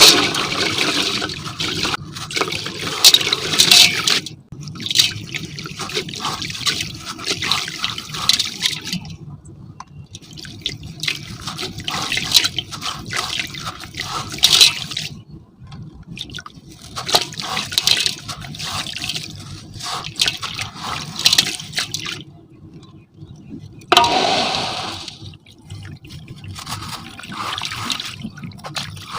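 Semi-gritty sand cement crumbling in a silver metal container, wet and gritty, in repeated crackling bursts a few seconds long with short pauses between.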